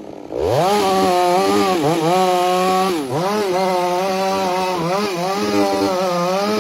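Petrol chainsaw cutting wood: the engine comes up from a low speed about half a second in, then runs at high revs with its pitch sagging and recovering several times as the chain bites.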